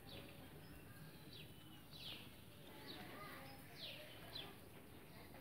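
Faint chirping of a small bird: short, high notes that fall in pitch, about one a second, over quiet background.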